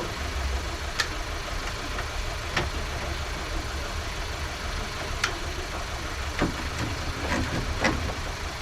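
Scattered sharp clicks and clinks, about six in all and unevenly spaced, of tools and parts being handled while a car is stripped, over a steady low rumble.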